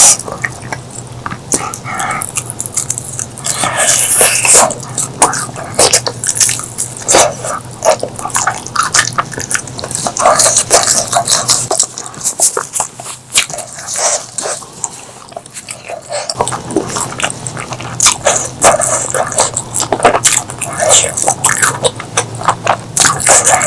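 Close-miked eating: crunchy chewing of raw vegetables with wet mouth smacking, in quick irregular crackles and clicks, quieter for a few seconds around the middle.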